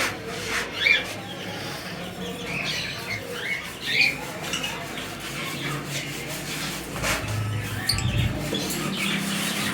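Caged birds giving short, scattered chirps and squawks over a steady low hum.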